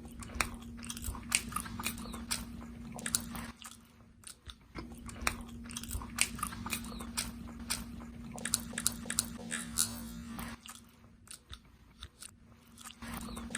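A person chewing and biting food close to the microphone: many short, irregular clicks, over a steady low hum that drops out twice.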